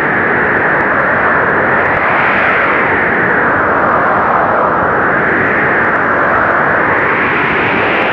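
Blizzard wind blowing hard: a steady, loud rush whose howl slowly rises and falls in pitch. It peaks about two seconds in, dips near the middle and climbs again near the end.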